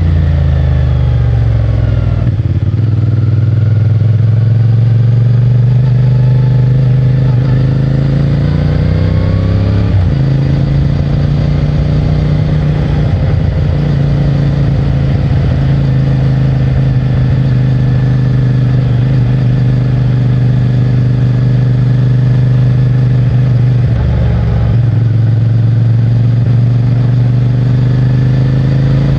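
CFMOTO 450MT motorcycle's parallel-twin engine and stock exhaust running under way. The engine note drops and then climbs as the bike shifts up about 2 s and 10 s in, holds steady cruising pitch between, and changes again near the end.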